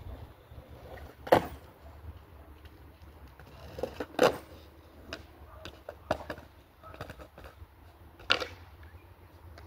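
Skateboard smacking on concrete: three sharp clacks a few seconds apart, with lighter knocks and clicks between them, over a low steady hum.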